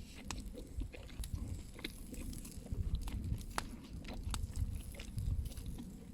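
A person chewing food close to the microphone, in irregular low mouth sounds, with scattered sharp clicks.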